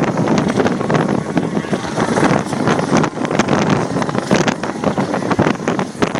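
Helicopter engine and rotor noise mixed with heavy wind buffeting on the microphone, loud and uneven throughout.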